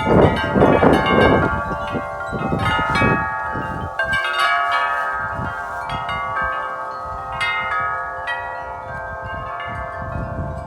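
A set of wind chimes struck over and over by a huge gust of wind, the tubes clanging and ringing together. Wind rumbles heavily for the first few seconds, then eases while the chimes ring on.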